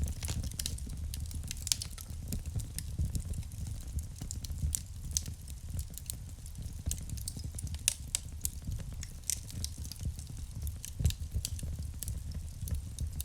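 Wood fire burning in a fireplace: irregular crackles and sharp pops over a steady low rumble of flame.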